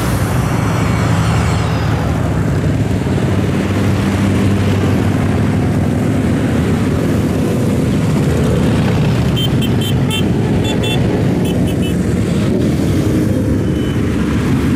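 Steady rumble of motorcycles and cars passing along a road in a continuous stream. A series of short high-pitched beeps comes in about ten seconds in.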